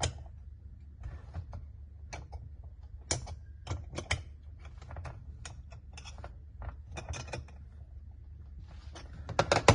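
Irregular sharp metallic clicks and taps as a steel centering plate and electrode holder are handled and a wrench tightens the fittings, some clicks coming in quick clusters. A steady low hum runs underneath.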